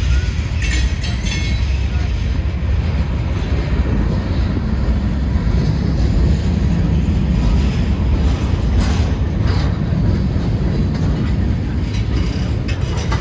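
Norfolk Southern freight train rolling past with a steady low rumble and a few short, sharp metallic clanks.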